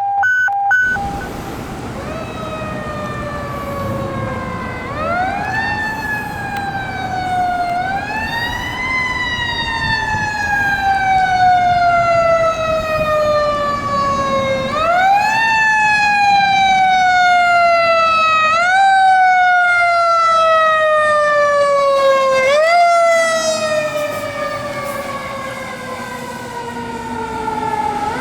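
Federal Q2B mechanical siren on a fire engine, spun up to a rising wail about five times and left to wind down slowly in between, over the low rumble of the truck. A short burst of rapidly pulsed tones sounds at the very start.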